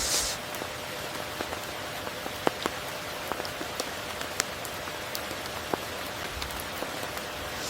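Steady rain falling, with many separate drops striking close by as sharp ticks over an even hiss. There is a brief surge of hiss at the very start.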